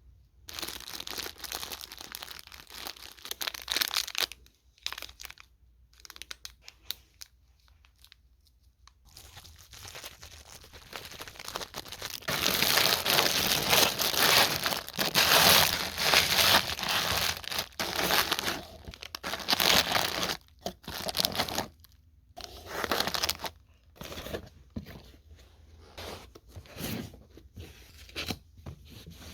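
Dry crinkling and rustling in irregular stop-start stretches, made of many small crackles; loudest and densest through the middle, with short pauses between stretches.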